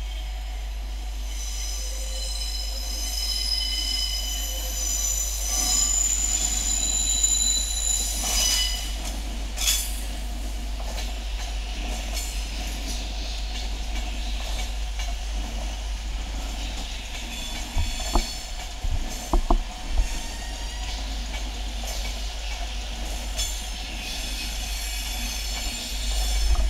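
Class 185 diesel multiple unit running into the station over curved track. Its wheel flanges give a high, several-toned squeal for the first nine seconds or so, then a handful of sharp clicks as the wheels cross pointwork, all over a steady deep rumble that grows louder near the end as the train comes close.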